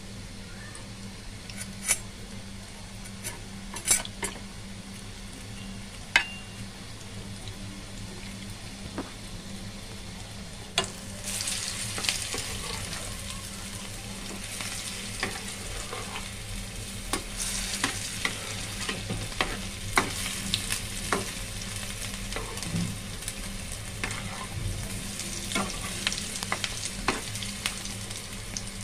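Keema shami kebab patties shallow-frying in oil in a non-stick frying pan, sizzling, with a few sharp clicks of a spatula against the pan. About eleven seconds in, when the patties are turned, the sizzle grows louder and crackles with frequent pops.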